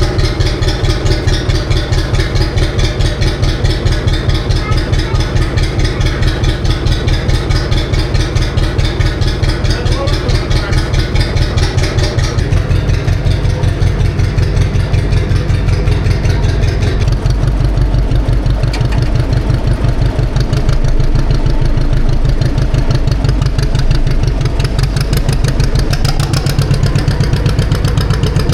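John Deere tractor engine running at idle with an even firing pulse. The engine speed changes about 12 seconds in and again about 17 seconds in.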